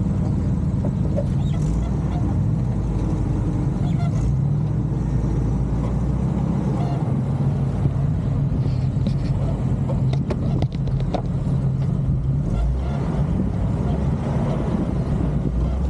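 Jeep Cherokee XJ engine running steadily at low revs as it drives a slow off-road obstacle course, with a few short knocks and clicks about two-thirds of the way through.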